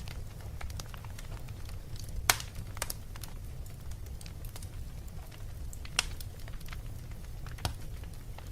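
Fire in a fireplace crackling, with scattered sharp pops over a steady low rumble. The loudest pops come about two seconds in, at six seconds, and near the end.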